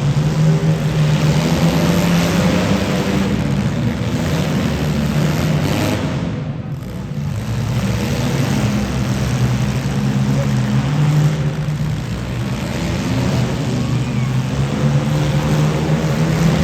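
Several demolition derby cars' engines running and revving together, a loud rough din that dips briefly about halfway through.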